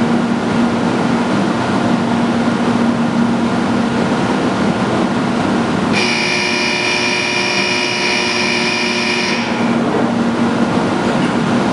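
Shinkansen bullet train standing at a station platform with a steady low hum and hiss. About six seconds in, a high, steady electronic tone starts suddenly, holds for about three and a half seconds, then cuts off.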